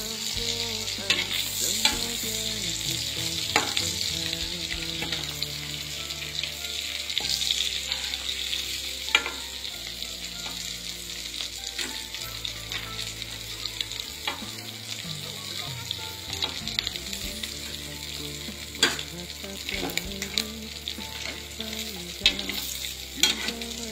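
Wet-anchovy and egg fritters frying in a pan of hot oil, a steady sizzle with occasional sharp clicks and knocks as a spatula turns them. Several fritters are done and a few are still cooking.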